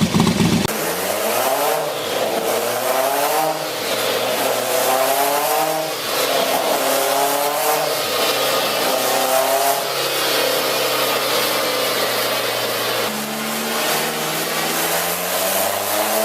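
Turbocharged engine accelerating hard through the gears: its pitch climbs, drops back at each shift and climbs again, about every two seconds, with a thin high whine over it for a few seconds in the middle.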